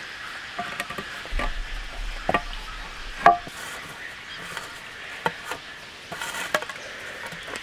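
Steady hiss of rain with irregular taps and knocks over it, the sharpest about three seconds in.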